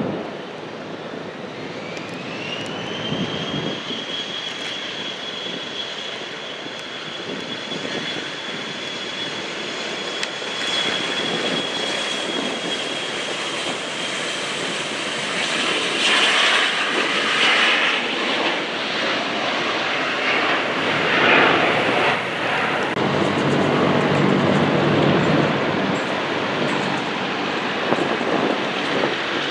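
An airplane's engines running: a high whine rises in pitch over the first few seconds and holds steady, and the engine noise grows louder in the second half.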